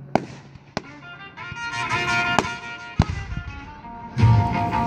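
Fireworks going off in several sharp bangs, with a deep boom near the end, while music with held notes plays and grows louder about a second and a half in.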